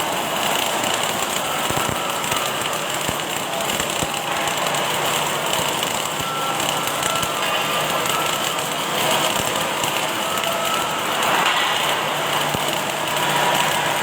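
Automatic welding machine running: a steady crackling hiss with a faint whine, without pauses.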